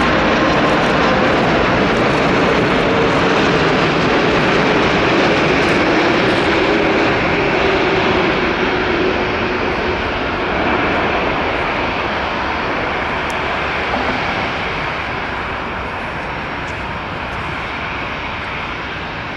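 Four-engine Boeing 747 freighter's jet engines, a loud, steady rush of noise with a faint tone gliding slightly lower over the first half, slowly fading.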